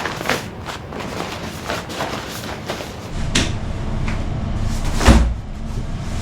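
Kitchen work sounds: a run of knocks and clatters. A low rumble starts about three seconds in, and one heavy thump about five seconds in is the loudest.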